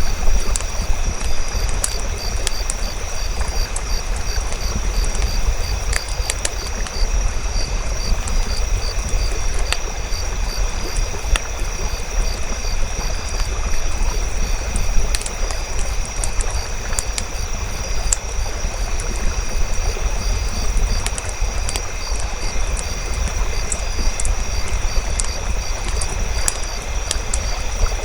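Campfire crackling: sharp, scattered pops over a steady rushing noise with a low rumble, and a thin, steady high-pitched chirring throughout.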